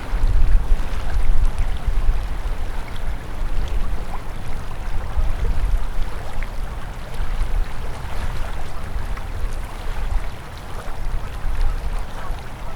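Winter river flowing steadily, a continuous rush of water, under a heavy, uneven low rumble.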